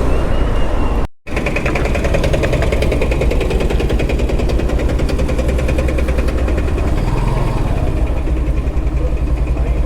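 Motorcycle engine running while riding, a rapid even pulsing over a steady low rumble. The sound cuts out completely for a moment about a second in, then comes back.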